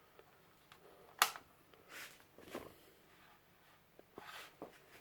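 A few scattered light clicks and knocks, the sharpest about a second in.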